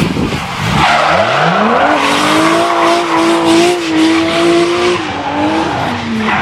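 A drift car accelerating hard into a drift: its engine revs climb steeply about a second in, are held high and steady, then ease off near the end, while the tyres skid and squeal.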